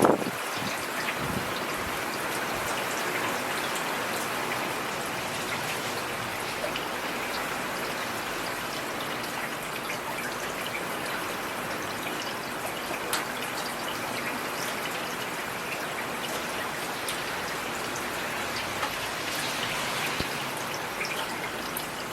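Heavy rain falling steadily, a dense even hiss with individual drops ticking sharply now and then. A brief low thud comes right at the start.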